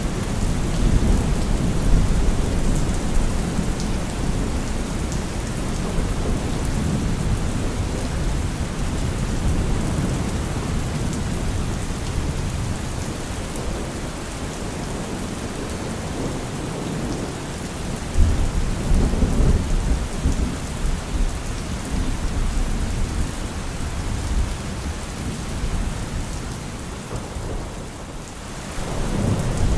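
Steady heavy rain with rolling thunder. The thunder rumbles near the start, and a sudden louder clap a little past the middle rolls on for several seconds.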